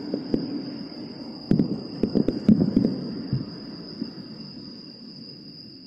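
Distant aerial firework shells bursting: a scattered run of sharp bangs, thickest between about one and a half and three seconds in, over a rolling rumble that dies away near the end. A steady high trill of insects carries on underneath.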